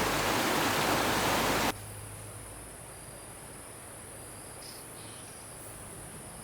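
A loud, even rushing noise stops abruptly about two seconds in. It gives way to quieter forest ambience with a steady, high-pitched insect drone.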